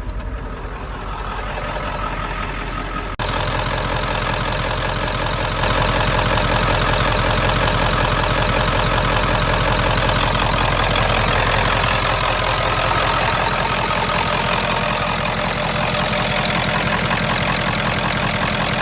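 A 1995 Ford F350's 7.3L Power Stroke turbodiesel V8 running at idle. It gets louder about three seconds in and again about five and a half seconds in, then holds steady.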